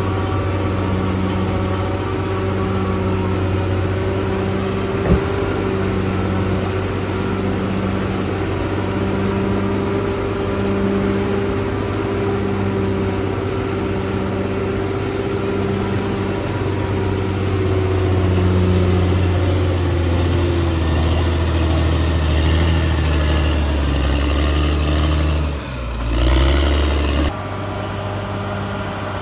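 Bulldozer's diesel engine running steadily, with a thin high whine over it and a low pulse about once a second. In the last third the engine note drops and shifts, then the sound changes suddenly near the end.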